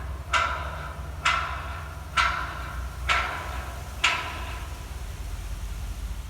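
A ringing metallic strike repeated evenly about once a second, five times, stopping a little after four seconds in, over a steady low rumble.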